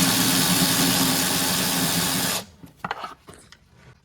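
Power ratchet running steadily for about two and a half seconds as it spins out an exhaust header bolt, then stopping suddenly. A few light metallic clicks follow.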